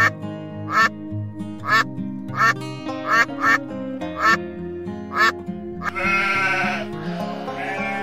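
A duck quacking, about eight single loud quacks roughly a second apart, over steady background music. About six seconds in, a longer wavering call begins, a sheep bleating.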